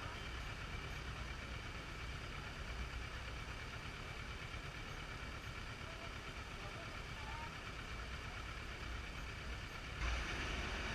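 Motor vehicle engine running steadily at low revs, with the noise rising suddenly near the end.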